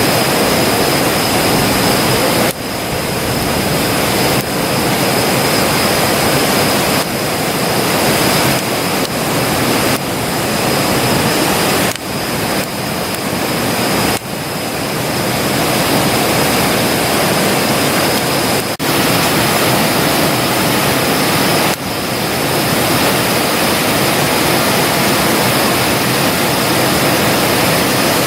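Campfire burning with a steady rushing noise, dipping briefly now and then.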